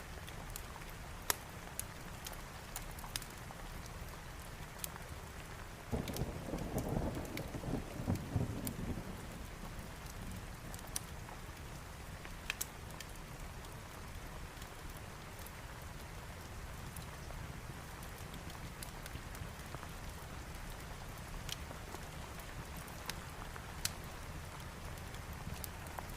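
Steady rain hiss with scattered sharp fireplace crackles; about six seconds in a rumble of thunder rolls for roughly three seconds.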